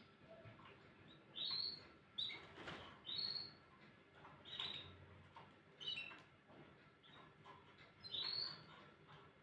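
Domestic canary calling in short high chirps and brief phrases, about one a second with pauses between.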